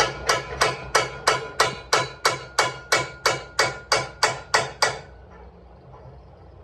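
A hammer striking metal in a steady run of about sixteen blows, roughly three a second, each with a short ringing clang; the hammering stops about five seconds in.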